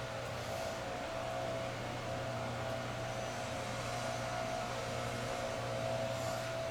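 A steady mechanical hum with a faint, even whine running over it.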